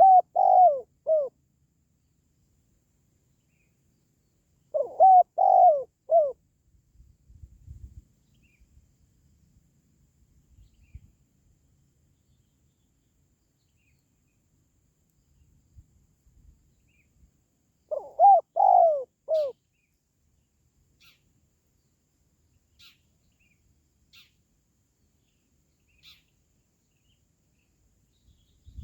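Spotted dove cooing: three call phrases, each a quick run of three or four coos lasting about a second, at the start, about five seconds in and about eighteen seconds in. It is the kind of call played to lure wild spotted doves.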